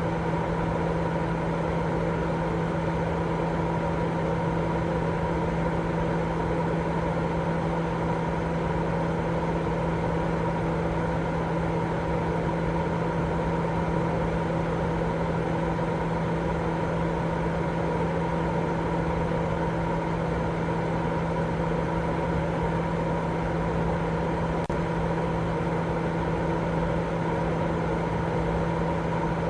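Continuous white noise for baby sleep: an even, unchanging hiss weighted toward the low and middle range, with a steady low hum running through it.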